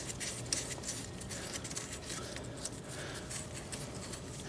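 Faint light metallic clicks and scraping of the axle nut being threaded back onto the end of the front axle shaft by hand.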